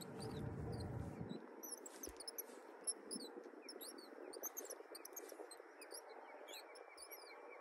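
Small birds chirping over and over in short, high, gliding calls, over a faint wash of wind and water, with a stronger gust of low rumble in the first second and a single sharp click about three seconds in.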